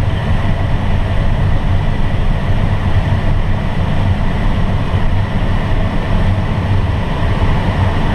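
Steady rush of airflow around a glider's cockpit in flight, a constant loud noise with no engine.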